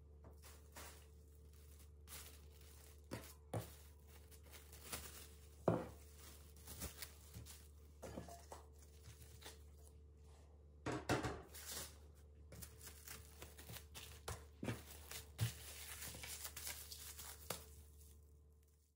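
Scattered light knocks and clicks mixed with rustling and crinkling, the sound of things being handled and set down, over a faint steady hum; the busiest stretch comes just past halfway.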